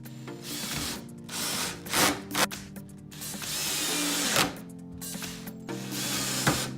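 Power drill boring pilot holes in oak for hinge screws, running in several short spells, over background music.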